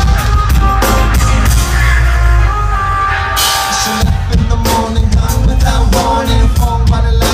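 Live band music: an instrumental passage of the song with drums, with the low end dropping out briefly about four seconds in before the band comes back in.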